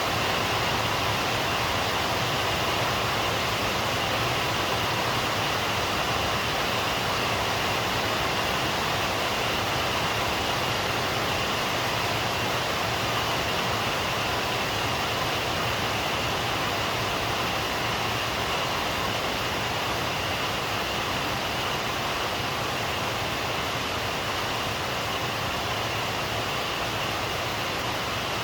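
Heavy rain falling steadily, an even unbroken rush with no thunder or separate drops standing out.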